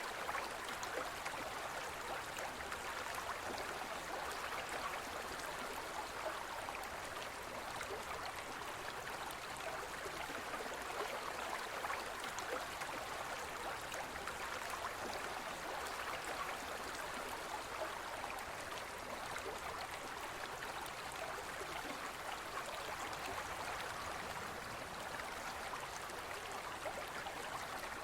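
Gentle forest river flowing steadily over stones, an even babbling rush of water.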